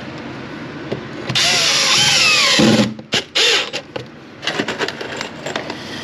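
Power drill running in bursts: one long run of about a second and a half with its pitch sliding down as it takes load, then a few short trigger pulls.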